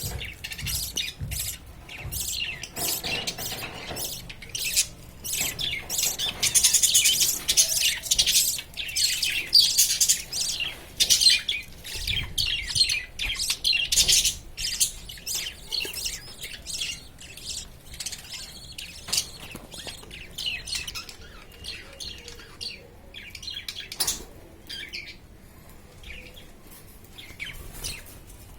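Several budgerigars chirping and chattering in rapid high calls, busiest in the first half and thinning out toward the end.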